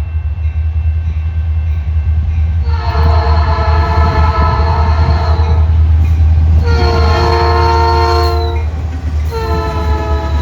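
CN freight train's lead diesel locomotive sounding its multi-chime air horn in three long blasts, over the heavy rumble of the locomotives' diesel engines. The sound grows louder toward the middle as the train draws close.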